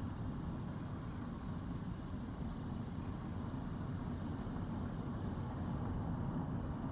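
A car driving at a steady pace: an even low rumble of tyres on the road and the engine running.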